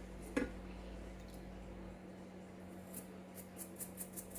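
Small carburettor cover being cleaned by hand: one light knock about half a second in, then a run of faint scratchy ticks near the end, over a steady low hum.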